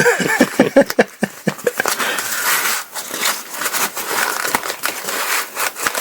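Crinkling and rustling of thin ripstop nylon paraglider fabric being handled and smoothed under a repair patch, with irregular sharp crackles.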